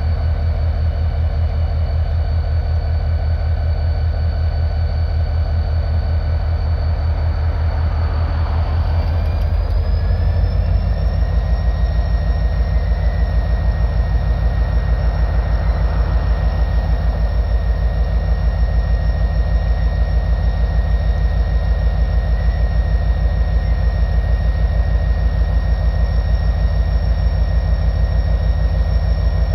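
Diesel locomotive engine running under load as it pulls a string of railroad cars, with a steady pulsing beat and a high whine. About nine seconds in the engine throttles up, the whine rises in pitch, and it then runs on a little louder.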